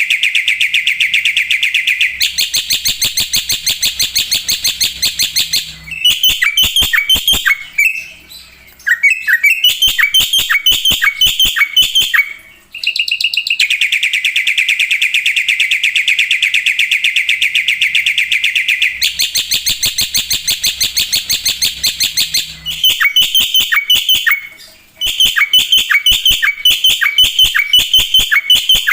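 Black-winged myna (jalak putih) singing loudly and without let-up: long runs of fast, repeated harsh chattering notes, broken by a few short pauses.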